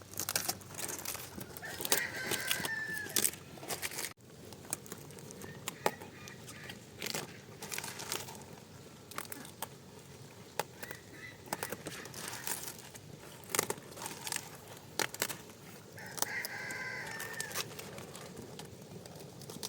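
A rooster crows twice, once about two seconds in and again near the end, over frequent short crackling and rustling noises.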